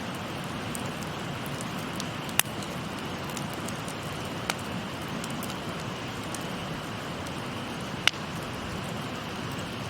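Wood fire crackling, with three sharp pops about two and a half, four and a half and eight seconds in and fainter ticks between them, over the steady rush of a shallow stream.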